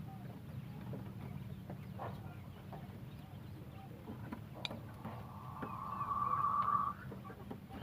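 Wild quail making soft scattered peeps and clucks, then a steady buzzing trill about five seconds in that lasts two seconds.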